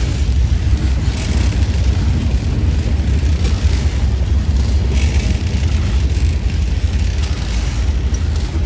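Freight train cars rolling past close by: a steady heavy rumble of steel wheels on rail, with a few faint clicks.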